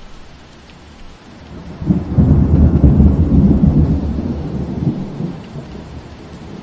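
Steady rain with a roll of thunder: a loud low rumble breaks in about two seconds in, peaks for a couple of seconds and fades away, leaving the rain hiss.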